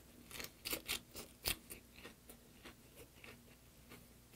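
Close-miked chewing of a mouthful of leaf-wrapped braised sardine and rice (ssambap): a run of wet clicks and smacks, thick and loud in the first second and a half, then sparser.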